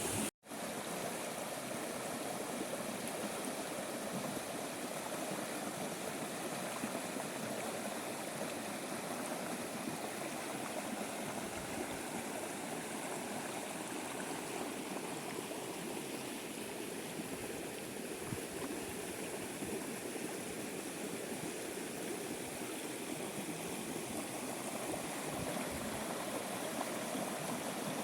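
Steady rushing of running water, like a small stream flowing, with a momentary dropout just after the start.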